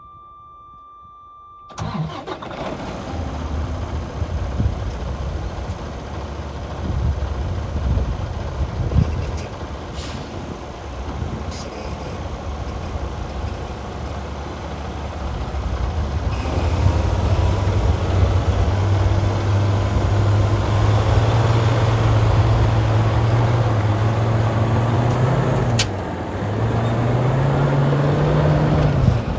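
Detroit DD15 diesel engine of a 2017 Freightliner Cascadia semi truck starting after a short steady tone, then idling. About halfway through the engine is revved up and held at higher speed. It drops back sharply near the end, then rises again.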